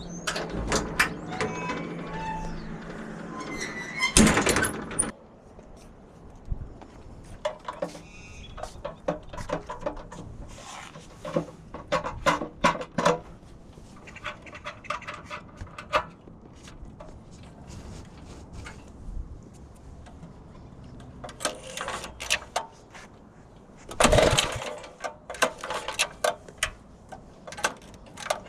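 Scattered clicks, clanks and knocks of hands working on a mini bike with a Tillotson 212 engine, with two louder rasping bursts about a second long, one a few seconds in and one near the end.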